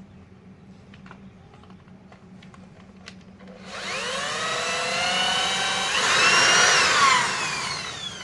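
An electric power tool motor starts about three and a half seconds in with a rising whine, then runs steadily. Around six seconds in it turns louder and rougher for about a second, then winds down with a falling whine near the end.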